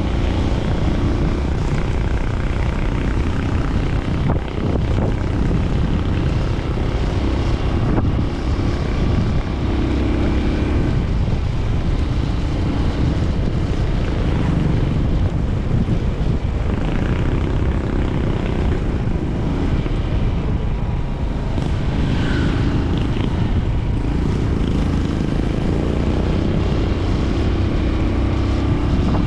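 Honda TMX 125 Alpha's single-cylinder four-stroke engine running steadily while riding, its note shifting now and then with the throttle, over a constant rush of wind noise.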